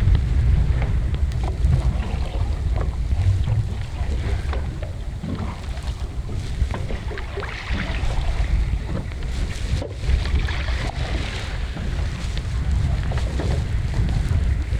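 Strong wind buffeting the microphone in a steady low rumble, with water lapping against a small boat's hull.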